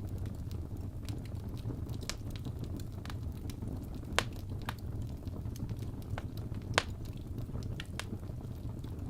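Wood fire crackling, with scattered sharp pops over a steady low rumble; two louder pops come about four and seven seconds in.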